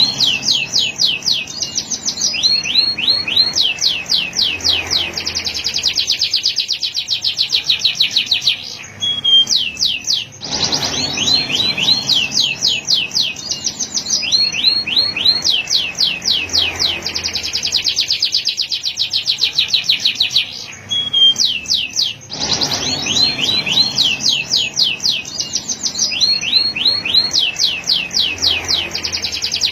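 Male domestic canary singing a long, continuous song of rapid trills, each a fast run of repeated high notes, with brief pauses about nine and twenty-one seconds in.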